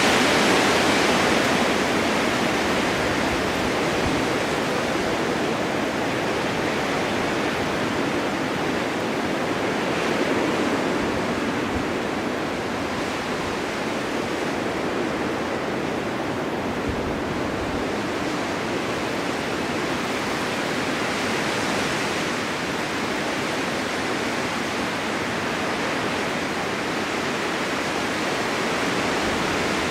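Blizzard wind on a mountain, a steady rushing of wind-driven snow that eases slightly after a stronger gust in the first couple of seconds and then swells gently.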